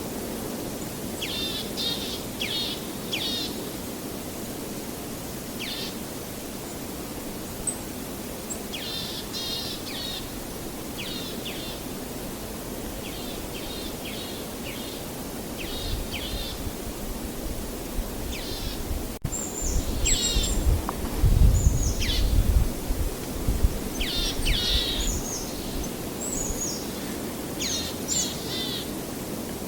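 Birds calling repeatedly in short, quick phrases over a steady wash of outdoor noise. About two-thirds of the way through, a loud, uneven low rumble swells up under the birdsong and then eases.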